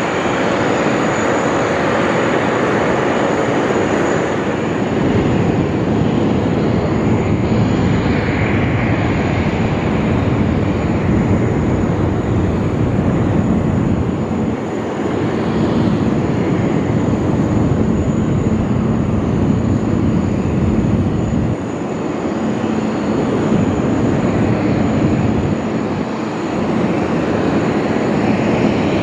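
Boeing 777X's two GE9X turbofan engines running loud and steady, a dense jet rush with a faint high whine over it, swelling and easing slightly as the airliner moves.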